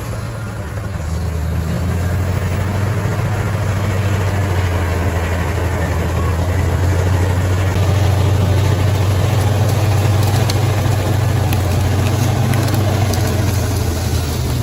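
Bulldozer's diesel engine running steadily with a deep, even drone, growing a little louder over the first couple of seconds.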